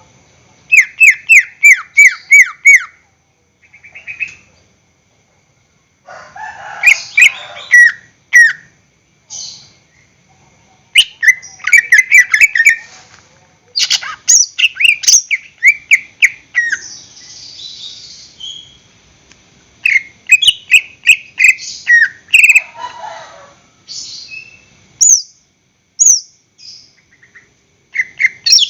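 Green leafbird (cucak ijo) singing in loud phrases of rapid, sharply falling whistled notes, each phrase a second or two long with short pauses between them.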